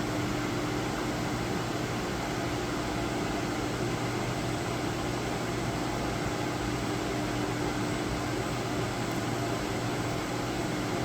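Steady hum of a CNC milling machine with its fans and drives running while a touch-probe cycle locates a hole, with a low steady tone under an even whir.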